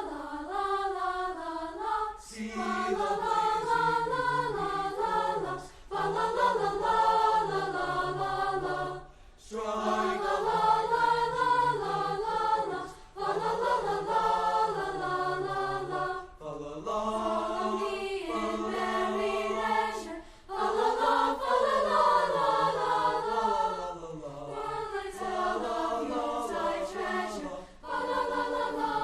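Choir singing in sustained phrases, breaking briefly every three to four seconds.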